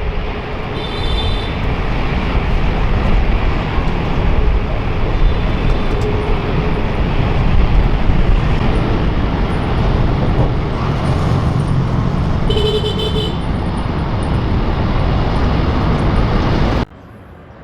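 Jet airliner engines making a loud, steady roar, with two short horn toots over it, about a second in and again near the end. The roar cuts off abruptly shortly before the end.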